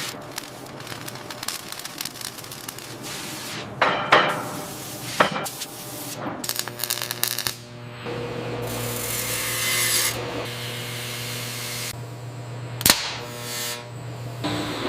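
Hand-tool work: scraping and rubbing, with a few sharp knocks, the loudest near the end.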